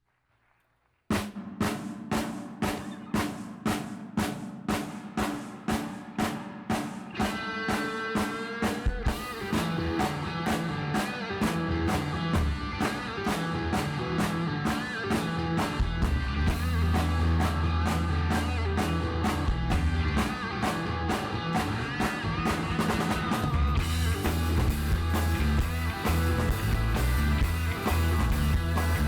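Rock band striking up a song: a drum kit plays a steady beat alone, about two strikes a second, then a held, bending melody tone comes in about seven seconds in. Bass and the rest of the band join around nine seconds, and the sound fills out further with cymbals near the end.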